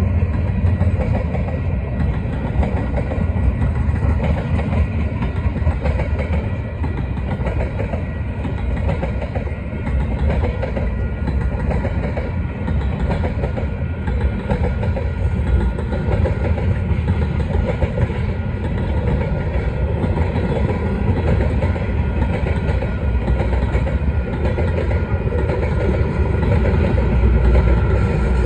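Freight train tank cars rolling past at speed: a steady heavy rumble and rattle of steel wheels on rail, with a clickety-clack over the joints and crossing. It grows a little louder near the end.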